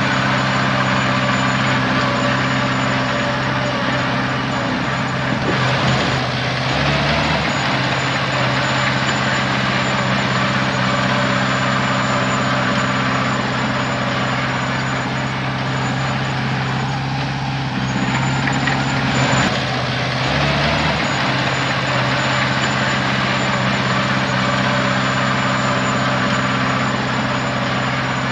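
A heavy diesel engine of earthmoving machinery runs steadily and loud, with rattling, noisy work sound over it. The engine note shifts briefly twice, about six seconds in and again about twenty seconds in.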